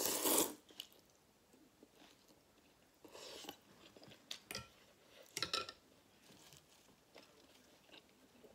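Close-miked eating sounds: a person chewing and biting food from a bowl of pork, shrimp and noodle soup, with a loud burst right at the start and a few shorter, softer ones between about three and six seconds in.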